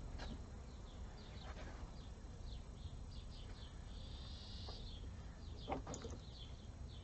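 Faint bird chirps repeating in the background, with a couple of light clicks a little before the end.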